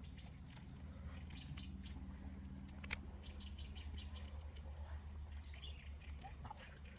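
Faint bird chirps over a steady low background rumble, with a few scattered sharp clicks.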